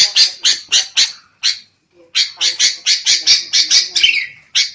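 Sooty-headed bulbuls giving rapid, harsh chattering calls, several a second, with a short break about one and a half seconds in and a downward slurred call near the end: the noisy, agitated 'kutilang ribut' chatter used to lure wild bulbuls.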